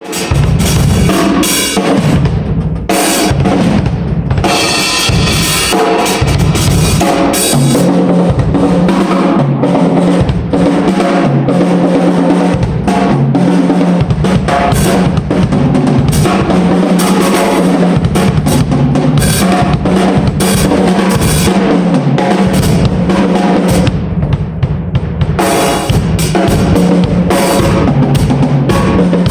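Drum kit played hard and continuously, a busy groove of bass drum, snare and cymbals with fast rolls and fills.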